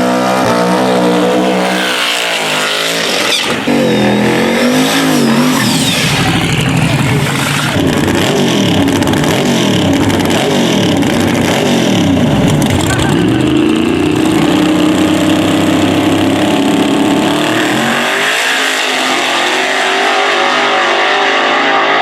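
Drag-racing car engines revving and running loudly, their pitch rising and falling several times.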